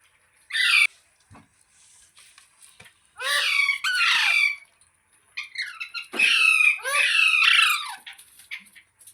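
Pet green parrot squawking: a short screech just after the start, then longer runs of harsh, rapidly repeated falling screeches in the middle and toward the end.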